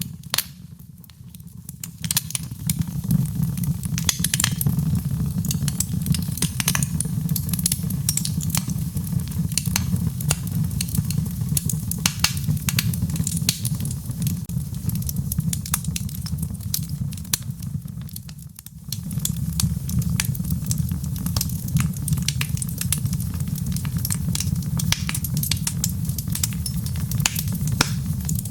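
Wood fire in a fireplace crackling, with frequent irregular pops and snaps over a steady low rumble of burning. It dips briefly twice, near the start and about two-thirds of the way through.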